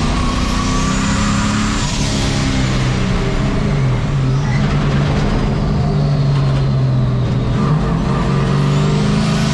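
Turbocharged engine of a 1951 Chevy race truck pulling hard on track, its pitch dipping about four seconds in as it comes off the throttle, then climbing again. A high whine rises and holds along with the revs near the start and again near the end.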